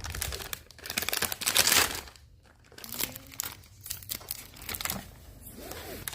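Blind-box packaging being handled and unwrapped, crinkling in irregular bursts, loudest around two seconds in, with a short lull just after.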